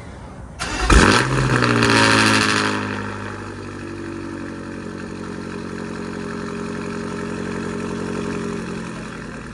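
2023 BMW M5 Competition (F90) twin-turbo V8, fitted with catless downpipes and an M Performance exhaust with no valves, starting up: about half a second in it fires with a loud flare that holds high for about two seconds, then drops and settles into a steady, very loud idle.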